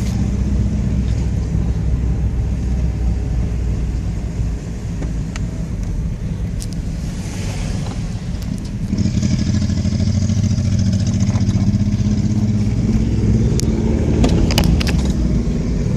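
1989 Honda Shadow VT1100C's V-twin engine running in low gear under a novice rider. The engine grows louder about nine seconds in.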